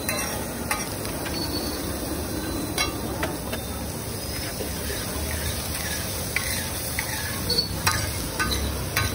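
Boiled egg halves and chopped onion sizzling in oil on a large flat tawa griddle, stirred with a long metal spatula that scrapes and taps on the griddle, giving several sharp clicks.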